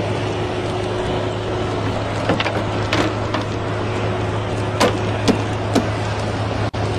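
A steady engine-like mechanical drone with a low hum, broken by several sharp knocks or clanks through the middle, and briefly cutting out near the end.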